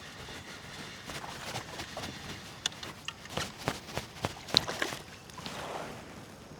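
Irregular light clicks and knocks of fishing gear being handled in a kayak, thickest in the middle.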